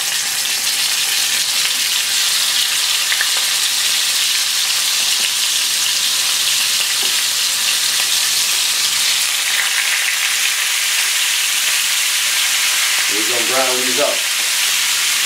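Oxtail pieces searing in hot vegetable oil in a frying pan: a loud, steady sizzle that grows stronger about nine seconds in as another piece goes into the oil.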